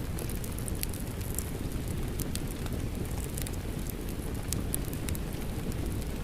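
Steady rain mixed with a crackling wood fire: a constant low rushing rumble with frequent sharp, irregular crackles and pops.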